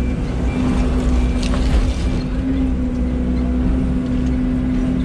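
Excavator's diesel engine running steadily, with a constant low hum and a knock about a second and a half in.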